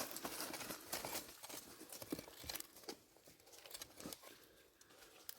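Irregular rustling and crackling with many small sharp snaps, busiest in the first half and thinning out toward the end.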